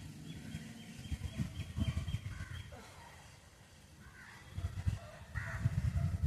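Crows cawing, a few short separate calls, over a low rumbling noise that is loudest near the end.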